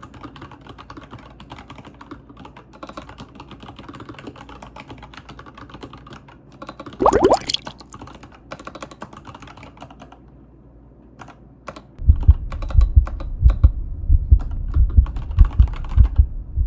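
Fast typing on a mechanical keyboard, the iQunix OG80: a steady run of key clicks. About seven seconds in, a brief loud rising squeak cuts through. Near the end the keystrokes turn much louder, each with a deep thump.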